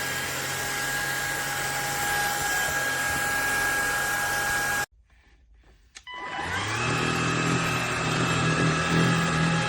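Cordless stick vacuum cleaner with a brushless motor running steadily, cutting off abruptly about halfway through. After a second of quiet and a click it starts again, rising in a whine as the motor spins back up to a steady run.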